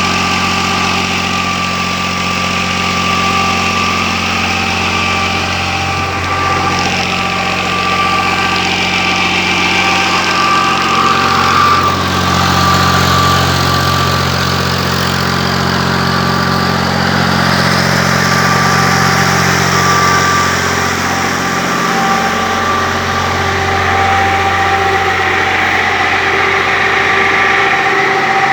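Old Fiat tractor's diesel engine running steadily while driving a tube-well turbine pump. The low hum breaks briefly about three-quarters of the way through.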